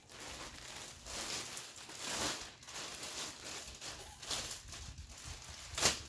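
Wrapping paper rustling and crinkling as it is handled and unfolded from around a sweater, in uneven swishes with a sharper crackle near the end.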